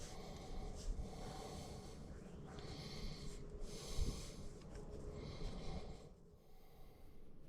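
A man's breathing close to the microphone, several hissy breaths a second or so apart, with a low thump about four seconds in.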